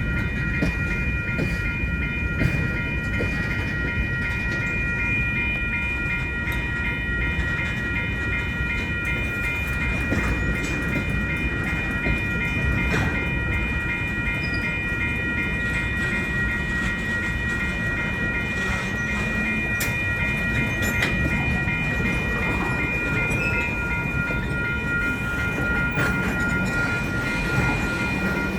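Freight train rolling past: a steady low rumble with scattered clicks of the wheels, under a continuous high ringing that pulses quickly.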